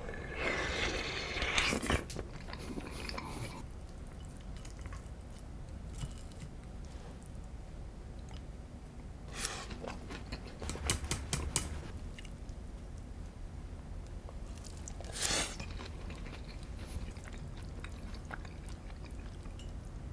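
A person biting and chewing food close to the microphone, with crunching. It comes in a few bursts: one near the start, a cluster of quick clicks around the middle, and one more later.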